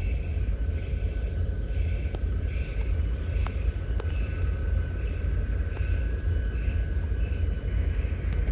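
Diesel locomotive running with a steady, heavy low rumble and a constant whine. A faint regular pulse repeats a little more than once a second.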